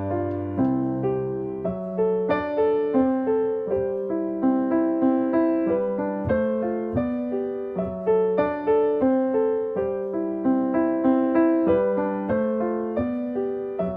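Background piano music: a steady, gentle run of single notes, about three a second, each fading after it is struck.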